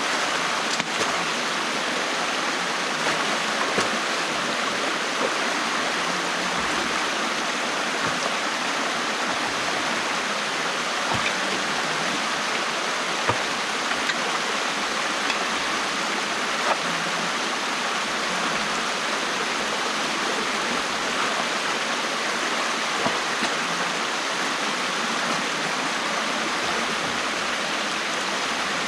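Stream water rushing steadily through a beaver dam, with a few small ticks scattered through it.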